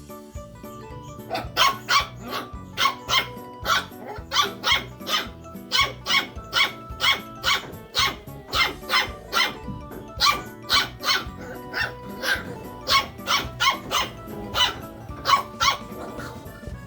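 A puppy barking over and over, sharp high yaps about two to three a second, often in pairs, starting about a second in. Background music plays underneath.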